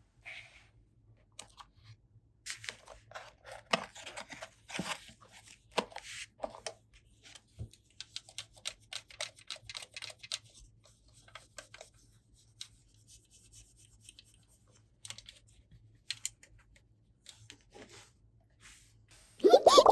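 Hands handling toy packaging and small plastic toy pieces: irregular tearing, crinkling and light plastic clicks. A brief loud sound cuts in right at the end.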